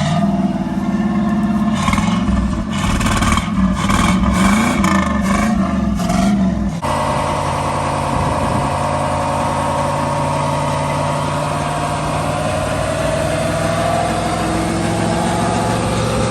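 1984 Buick Regal engine running on a cold start after sitting four years, revved unevenly up and down for about seven seconds. It then changes suddenly to a steady idle.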